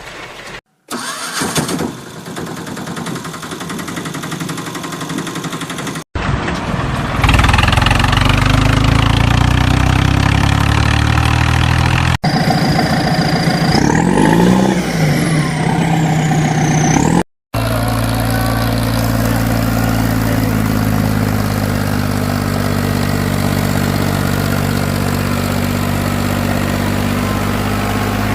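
Tractor engine sounds in several short, abruptly cut segments: an engine starting and revving, then from about 17 seconds a steady low idle. Around the middle, a high whistling tone holds and then glides up and back down.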